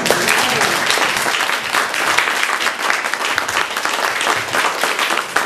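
Audience applauding, dense clapping throughout, with a few scattered voices in the crowd.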